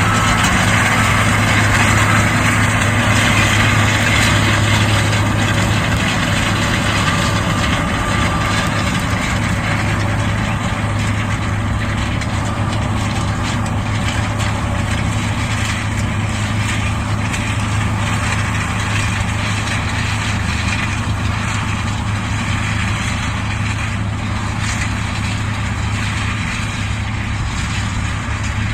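Combine harvester working: a steady engine drone with a strong low hum and a broad wash of machinery noise, easing off slightly in level over the stretch.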